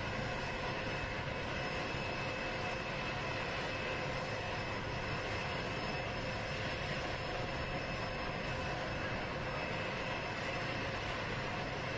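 Jet engines of Air Force One, a Boeing 747, running steadily: an even rushing hiss with a constant high whine.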